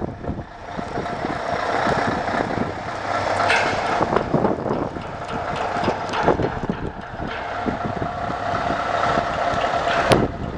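Scania 143 truck's 420 hp V8 engine running, swelling over the first couple of seconds and then holding steady. A single sharp click near the end.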